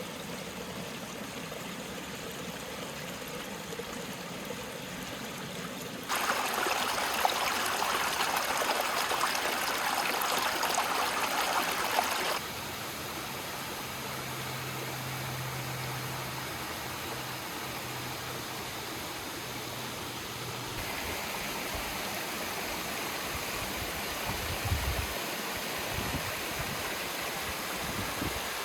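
Stream water rushing steadily over rocks. For about six seconds in the middle it is suddenly louder and brighter, then drops back just as abruptly.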